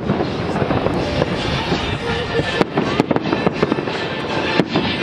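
Aerial fireworks going off: a dense, continuous crackle of bursting shells, with a run of sharper bangs a little past the middle and another near the end.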